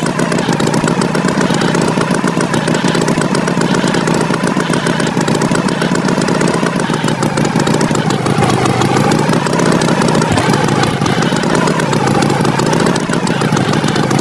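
Engine sound effect of a cartoon farm tractor, running steadily and loud, its pitch wavering slightly.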